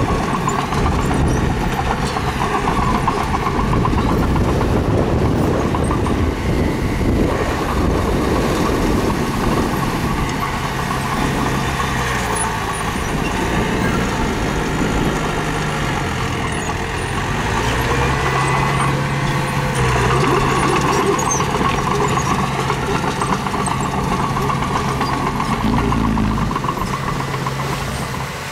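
Diesel engine of construction machinery running continuously, its note shifting a little with load.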